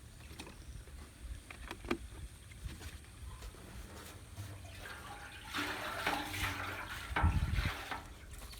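Apple cider vinegar sloshing and trickling in a rusty metal gas tank while it is being worked around to dissolve the rust, with a few small clicks early on and the liquid sound loudest in the last few seconds.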